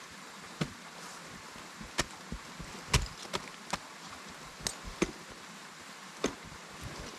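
Ice axes and crampons striking frozen waterfall ice during a climb: about ten sharp, irregular strikes, the loudest about three seconds in.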